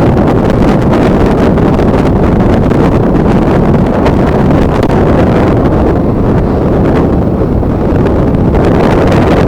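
Strong wind buffeting the camera microphone: a loud, steady low rumble with no break.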